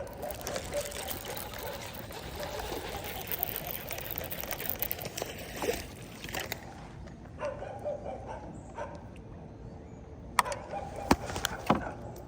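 Water splashing and trickling for the first six seconds or so, then a few sharp knocks near the end.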